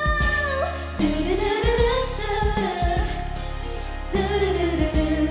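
Female voices singing a K-pop ballad live over a backing track, drawing out long held notes that slide up and down in pitch.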